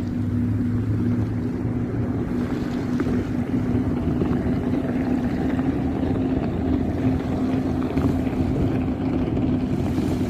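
A steady engine drone with a low, constant pitch, over wind noise on the microphone.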